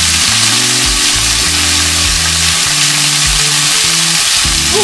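Chicken pieces sizzling steadily as they fry in annatto oil in a stainless steel pan, with background music of sustained low notes underneath.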